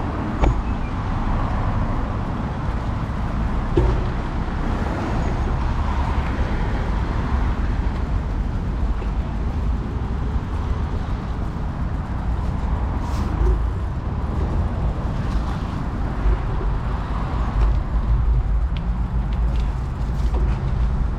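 Steady rumble of wind on the microphone of a moving bicycle, mixed with the noise of road traffic.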